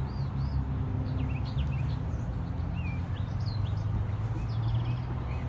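Songbirds chirping repeatedly in short high calls over a steady low hum.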